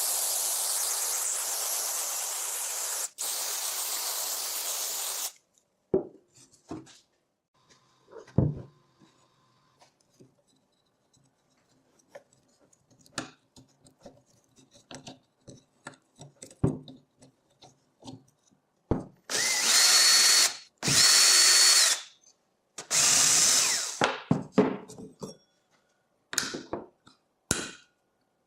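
A handheld power tool runs in bursts: one run of about five seconds at the start, briefly broken near three seconds, then three shorter runs in the latter half. Between the runs come small metallic clicks and knocks of parts and tools being handled.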